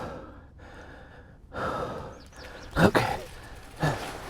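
A mountain biker breathing hard from exertion, with a loud exhale about every second and a half.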